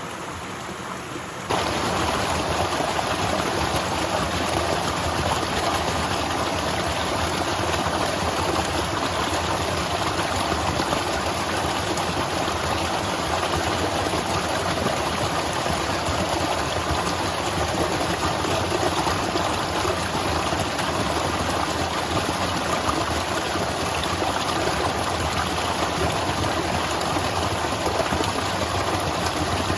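Waterfall: steady rushing water that jumps louder about a second and a half in, then holds even.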